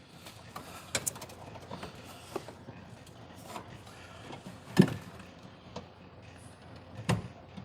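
A few separate light knocks and clicks of tools and metal parts being handled, the loudest about five seconds in, over a faint steady hiss.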